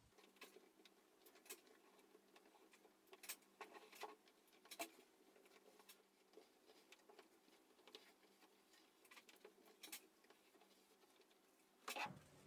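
Near silence, broken by faint, scattered small clicks and taps: light handling of parts during the machine's reassembly.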